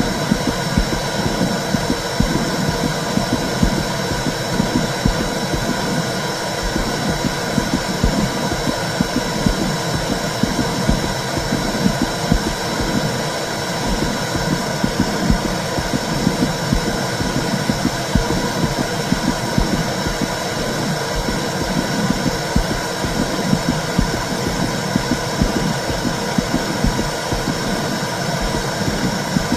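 Womb-sound recording for soothing a baby: a steady, low rumbling whoosh that runs on without a break.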